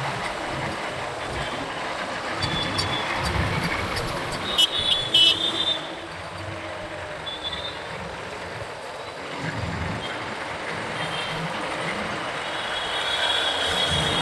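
Riding a motorbike through city traffic: steady road and engine noise, with a loud burst of short vehicle-horn honks about five seconds in and a longer horn near the end.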